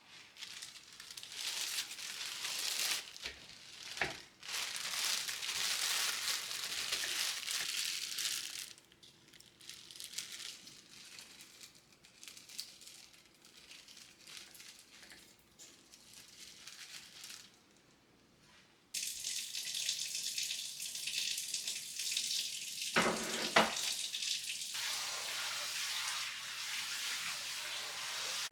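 Kitchen tap running into a sink, on for several seconds, off, then turned on again suddenly a little past halfway, with a few clunks of dishes or the sink.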